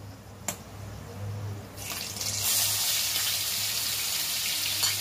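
Onion and green chilli paste going into hot oil in a kadai: a loud, steady sizzle starts about two seconds in. A single light click comes about half a second in.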